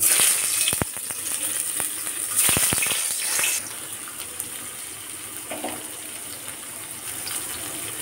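Paneer cubes dropped into hot oil in a metal kadai, sizzling at once, with a few knocks as the cubes land. The sizzle is loudest for the first three seconds or so, then settles to a steady, quieter hiss as the paneer fries.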